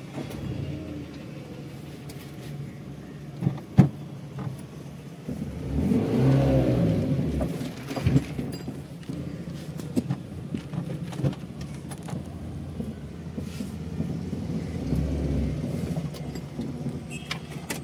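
Small Tata car's engine running, heard from inside the cabin, swelling louder for a couple of seconds about six seconds in. There is one sharp knock a little before four seconds in and a few lighter clicks later.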